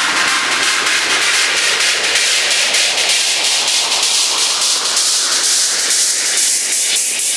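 White-noise riser in a hard electronic dance track: a loud, steady hiss that thins out at the bottom and brightens toward the top over several seconds, with a faint beat pulsing under it.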